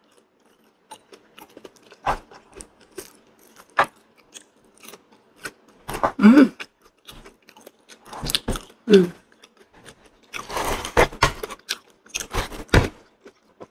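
Close-up eating sounds of a person chewing soft Thai durian flesh: wet mouth clicks and smacks, with a couple of short hummed voice sounds around the middle. Near the end, a longer rustling, scraping stretch with sharp clicks as a piece of the durian's spiky husk is handled and pulled apart.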